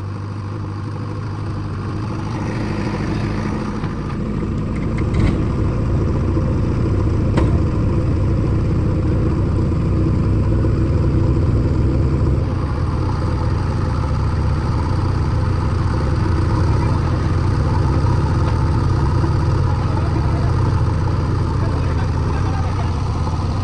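Diesel engine running steadily at raised revs, building up over the first few seconds and then holding level.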